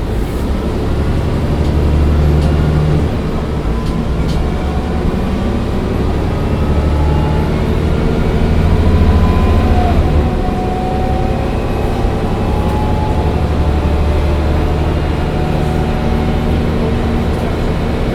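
Mercedes-Benz O405 N1 city bus driving, heard from inside the passenger cabin: a deep engine drone that swells under acceleration several times, with a whine from the drivetrain rising in pitch as the bus gathers speed.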